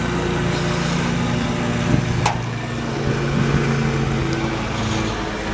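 Steady low mechanical hum like an idling engine, with a single sharp click a little over two seconds in.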